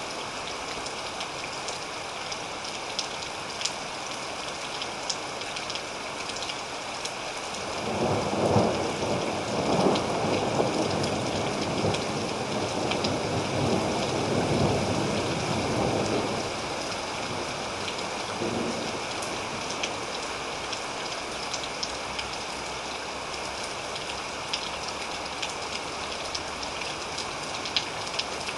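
Steady rain with scattered drop ticks; about eight seconds in a long rumble of thunder rolls in, peaks twice, and dies away by about sixteen seconds.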